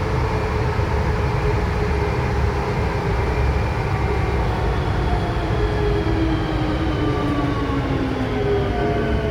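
Interior running noise of a rubber-tyred VAL 208 metro train: a steady low rumble with an electric traction-motor whine of several tones that holds level, then falls in pitch from about halfway through as the train slows. The uploader describes this train as having a slight motor fault.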